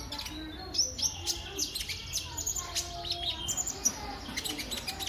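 Kolibri ninja sunbird singing a fast, busy run of high, sharp chirps and short trills, many notes a second.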